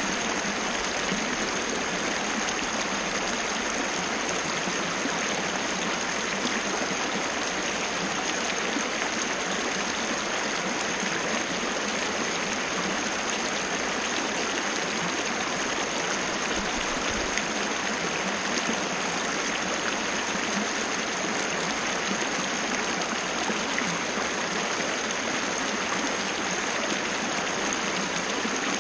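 Small waterfall splashing steadily, an even rush of falling water with no change in level.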